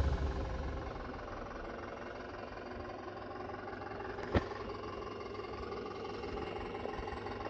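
Scale RC rock crawler built on a Traxxas TRX-4 chassis crawling slowly over rocks: a faint, steady hum from its brushless motor and metal-gear drivetrain, with one sharp click a little over four seconds in.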